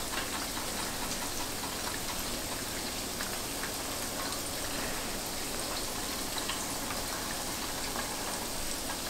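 Battered seafood deep-frying in hot oil in a wok: a steady sizzle with small scattered pops.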